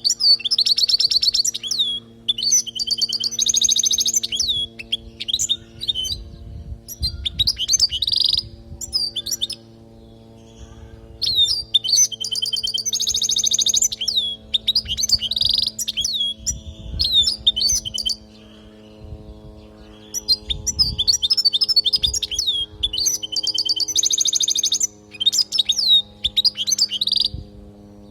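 European goldfinch singing: quick twittering and trilled song phrases in three bouts with short pauses between them, over a faint steady low hum.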